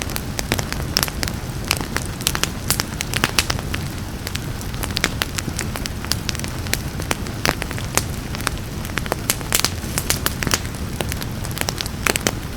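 Wood fire crackling, with many irregular sharp pops and snaps over a steady low rumble, and rain falling softly behind it.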